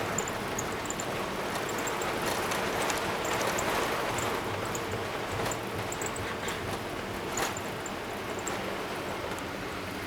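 Steady rushing cabin noise of a Boeing 777-300ER on the ground after landing, engine and rolling noise blended, easing slightly toward the end, with faint high ticks and rattles.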